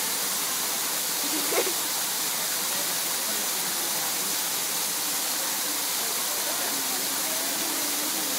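Steady rush of a waterfall pouring into a pool, with faint voices in the background. One short, sharp louder sound stands out about a second and a half in.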